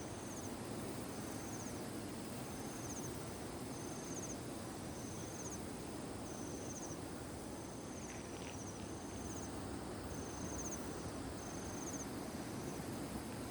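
An insect, cricket-like, chirping: a short high trill repeated evenly a little more than once a second, over a steady low rushing hiss of evening ambience.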